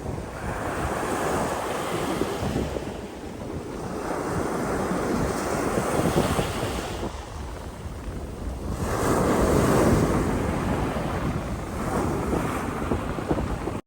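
Sea waves washing onto the shore, the surf swelling and falling back roughly every four seconds, with wind buffeting the microphone.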